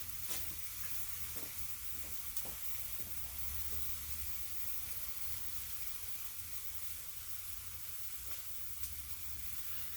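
Quail sizzling on a charcoal grill: a steady hiss with a few faint crackles, over a low hum.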